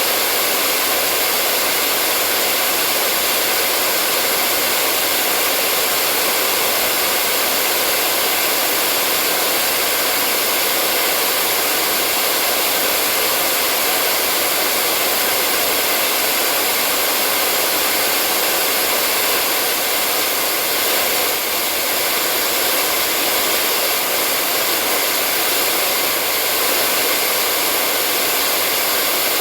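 Hair dryer blowing steadily: an even, unbroken rushing hiss.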